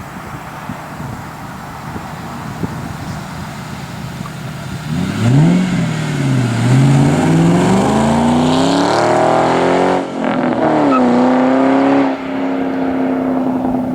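Ford Mustang V8 exhaust on a drive: engine running at low revs, then accelerating hard from about five seconds in, pitch climbing and dropping at two gear shifts, before easing off to a steady drone near the end.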